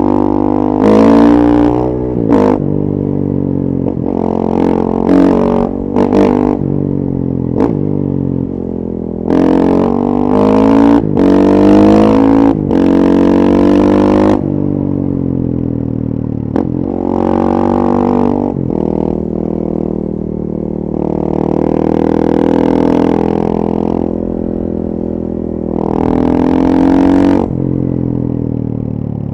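2014 KTM 450 EXC's single-cylinder four-stroke engine running through a full FMF 4.1 exhaust, pulling hard under repeated accelerations. The pitch climbs, then breaks off sharply at each gear change or throttle lift, over and over. Through the middle the engine settles to a steadier note, with another hard pull near the end.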